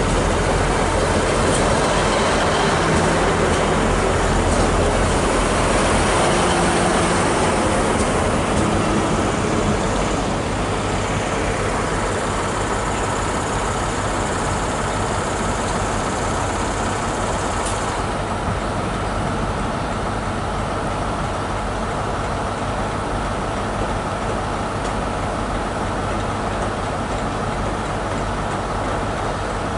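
Trains in a station: a passenger train running past the platform, then, after the sound drops a little about ten seconds in, a GWR Class 158 diesel multiple unit pulling away with its engines running.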